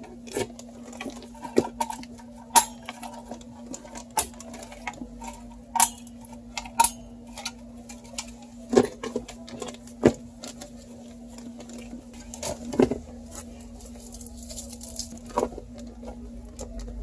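Irregular sharp plastic clicks and taps of PC parts being handled, most likely the stock Intel CPU cooler's push-pins being pressed home into the motherboard, over a faint steady hum.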